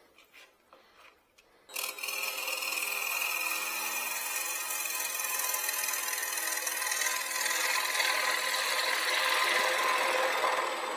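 Bowl gouge cutting the wood of a small bowl spinning on a wood lathe, a steady scraping hiss that starts suddenly about two seconds in and runs on.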